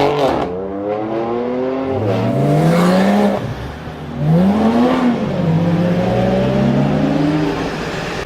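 Lamborghini Huracán LP610-4's naturally aspirated V10 being revved: the engine note climbs and falls again several times, with a sharp rise about four seconds in before it eases back down.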